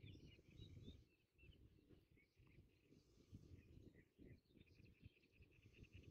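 Faint birdsong: scattered chirps, then a rapid trill near the end, over a gusty rumble of wind on the microphone.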